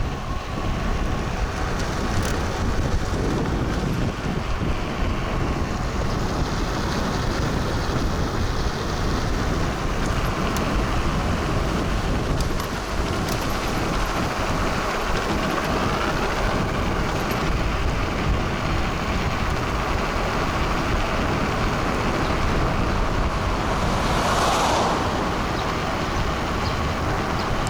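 Steady wind rush over the action camera's microphone and road noise from an electric fat bike riding at speed on the road.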